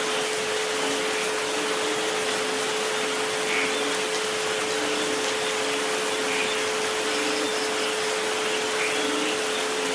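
Steady rain noise with a constant 432 Hz tone held beneath it and a fainter 528 Hz tone just above.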